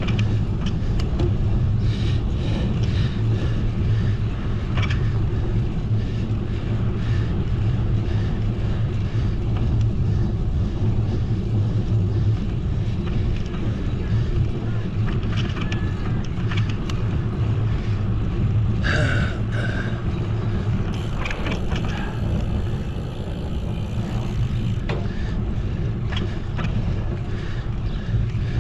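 Wind rumbling steadily over the microphone of a camera riding along on a moving bicycle, with a few faint ticks.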